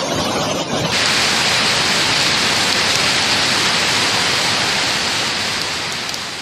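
Hailstorm: a dense, steady hiss of hail and rain pelting down, turning brighter and fuller at a cut about a second in.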